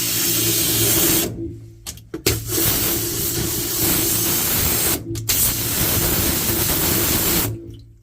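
High-pressure water jet spraying hard, with a steady motor hum underneath, blasting stuck debris off a top-loading washing machine's tub shaft. The spray cuts out briefly about a second in and again about five seconds in, then stops near the end.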